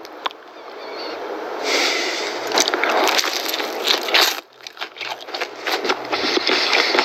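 Close-up crunching and chewing of crispy KFC fried chicken coating: a dense run of crackles and crunches that builds over the first two seconds and breaks off briefly about four and a half seconds in.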